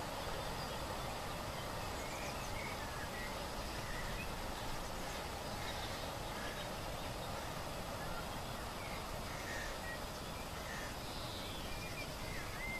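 Small birds chirping now and then over a steady outdoor rush of background noise with a low rumble.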